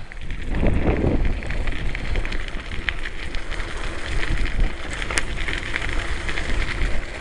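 Bicycle being ridden along a rough track: wind rushing over the microphone, with tyres crackling on the loose surface.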